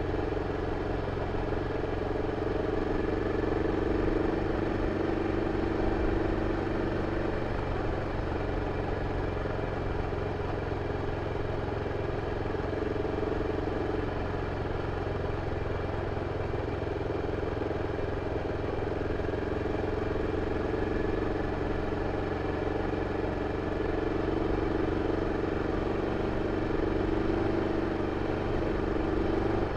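BMW F 650 CS motorcycle's single-cylinder engine running through its original exhaust, a steady engine note that eases off about halfway and picks up again later.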